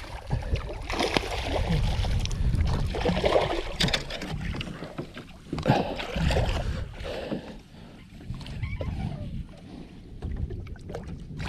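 Water sloshing and splashing around a kayak, with scattered knocks and handling noise, while a large seatrout is fought and landed alongside.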